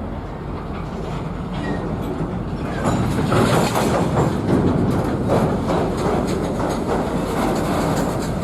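Freight train cars rolling past, the wheels making a rapid run of clicks over the rail joints. The sound gets louder about three seconds in.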